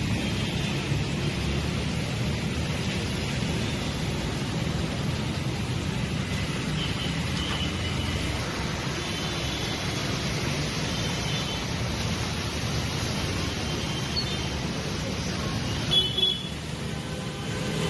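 Steady traffic noise on a city street: a continuous low rumble and hiss of passing vehicles. About sixteen seconds in there is a brief sharp jump in level, then a quieter stretch.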